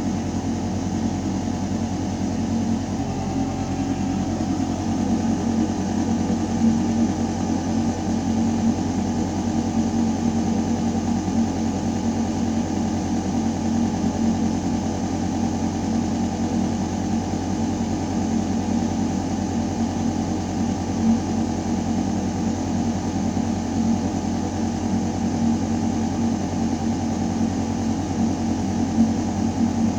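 Building ventilation system humming: air moving through metal ductwork with a steady, low mechanical drone and a few held tones. The low tones shift slightly about three seconds in.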